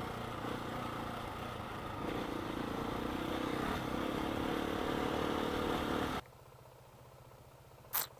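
Motorcycle engine and riding noise, the engine note rising a little partway through, then cutting off abruptly about six seconds in. A single short click follows near the end.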